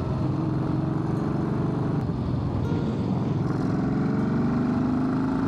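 2014 Yamaha Bolt XV950's air-cooled V-twin engine running as the motorcycle rides, its pitch rising gradually over the last couple of seconds as it speeds up.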